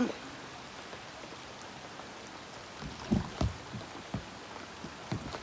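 Steady hiss of running floodwater, with a few dull low thumps about three seconds in and again near the end.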